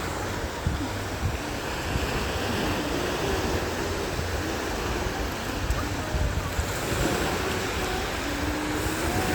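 Sea waves breaking and washing up on the beach, with wind buffeting the microphone in a low rumble.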